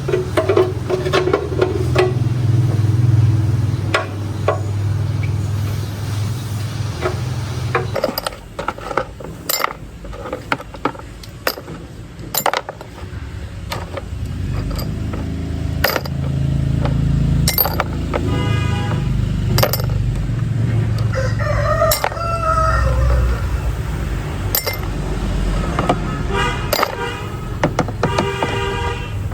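A rooster crowing several times, the calls coming in the second half, over a low steady rumble and frequent sharp clinks.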